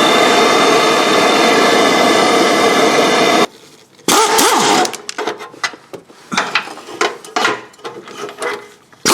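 A power wrench running on exhaust bolts: one steady run of about three and a half seconds, then a string of short bursts.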